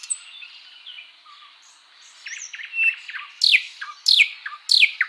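Birds chirping and singing, with short high chirps and trills and three loud falling whistled calls in the second half.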